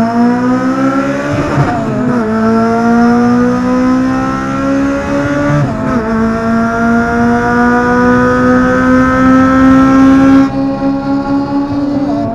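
Honda K20 inline-four engine pulling hard through the gears: the revs climb steadily, drop sharply with an upshift about 2 s in and again about 6 s in, climb once more, then the throttle comes off near the end and the engine runs on at steady revs.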